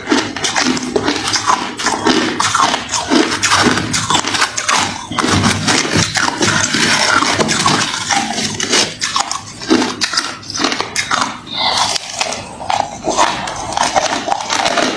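A person chewing hard refrozen crushed ice: dense, continuous crunching and cracking.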